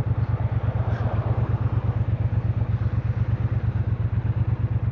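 Triumph Bonneville Bobber's 1200 cc parallel-twin engine running steadily, with an even, rapid pulsing beat at a constant speed.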